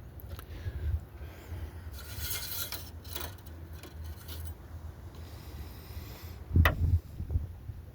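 Metal rubbing and scraping as a truck's engine oil dipstick is handled, with a longer rasp about two seconds in and a sharp click with a couple of knocks near the end.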